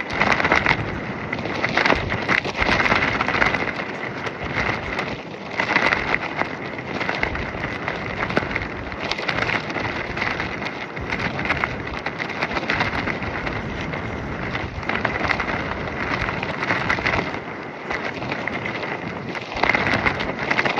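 Nylon tracksuit fabric flapping and crackling hard in strong gusting wind, with wind buffeting the microphone. It surges with each gust, loudest near the start, around two to three seconds in, at about six seconds and again near the end.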